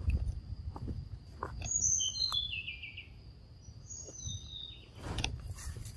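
A bird calling in the background: a quick run of chirps stepping down in pitch about two seconds in, then a shorter run about two seconds later. Underneath is a steady high-pitched insect drone.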